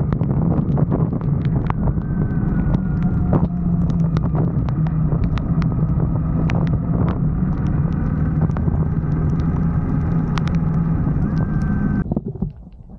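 Motorcycle engine running steadily on the move, with a constant low hum and scattered sharp ticks; it stops abruptly near the end.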